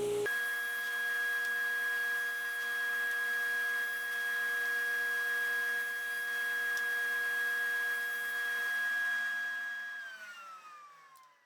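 Table saw running with a steady, high motor-and-blade whine; near the end it is switched off, and the pitch falls and fades as the blade spins down.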